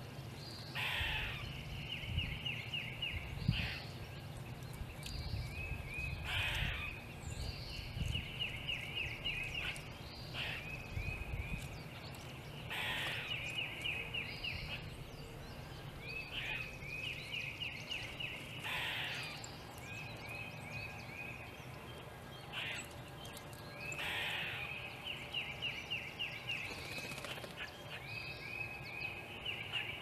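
Outdoor birdsong: a bird repeats a trilled song of about a second and a half every few seconds, each one led by a short harsh note, over a low rumble.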